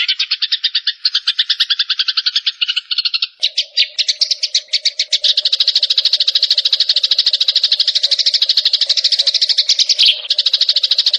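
Songbird song from a layered bird-training recording: a fast, unbroken run of high chirps at about ten notes a second. About three and a half seconds in the song changes to a denser trill and a steady low hum joins underneath.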